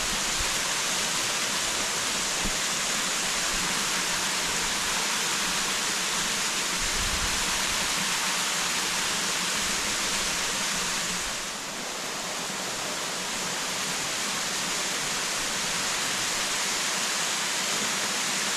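Waterfall rushing: a loud, steady roar of falling water, dipping slightly for a moment midway.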